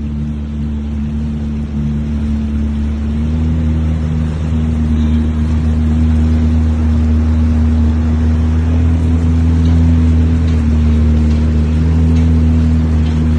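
Jet ski engine running under way, a steady low drone that steps up in pitch about three seconds in and grows louder, over rushing water and wind noise.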